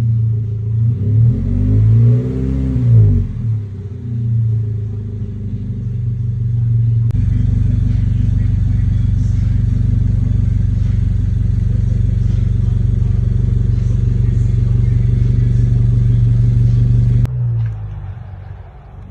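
Toyota GR86's 2.4-litre flat-four through a Remark axle-back exhaust with the muffler deleted. It idles with a couple of quick revs about one to three seconds in. From about seven seconds a steadier, fuller engine drone begins, then cuts off abruptly near the end, leaving the idle again.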